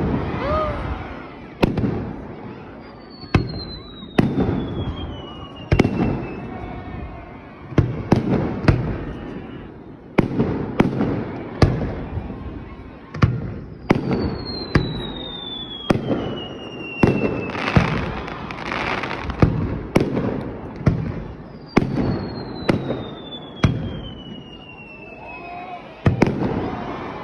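Aerial fireworks going off in quick succession: sharp bangs every one to two seconds, each trailing off in echo. A long falling whistle sounds three times, and a thick crackle near the middle.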